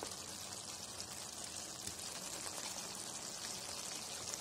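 Thick chicken curry masala sizzling in its oil in the pan, a steady hiss with fine crackles; the oil has separated and risen to the top, a sign the masala is cooked down.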